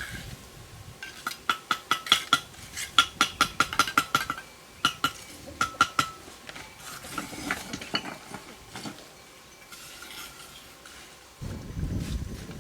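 A rapid series of sharp, ringing metallic clinks, several a second, thinning out to a few scattered taps; a low rumbling noise starts near the end.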